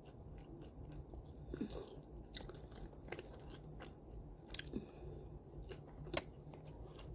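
A person chewing food with the mouth closed, with faint mouth clicks every second or so.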